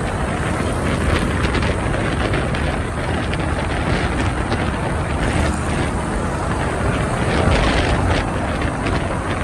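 Steady rumble and rush of a motorbike riding through dense city traffic, heard from the rider's seat, with a heavy low rumble throughout.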